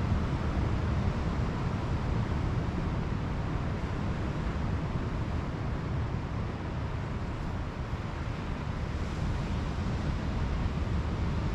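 Pacific Ocean surf breaking and washing on the beach, a steady noise under a low rumble of wind buffeting the microphone.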